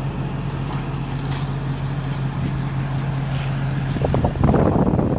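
Steady low mechanical hum from the 1999 Ford F450 crane truck. About four seconds in, a louder rough noise comes in and lasts about a second.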